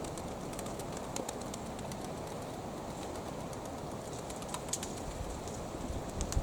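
Wind buffeting the microphone, with domestic pigeons close by: scattered light clicks and flutters over the wind noise. The wind rumble swells near the end.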